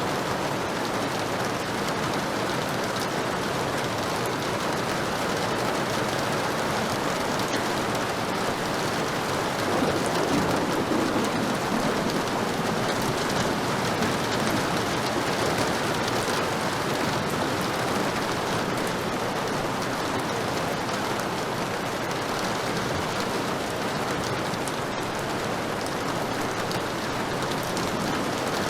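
Heavy rain falling steadily, a dense even hiss of drops, with a brief low swell about ten seconds in.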